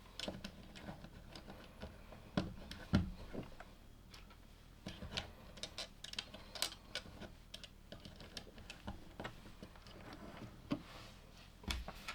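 Plastic LEGO pieces clicking and tapping as they are handled and pressed together, irregular small clicks with a few louder knocks, one about three seconds in and another near the end.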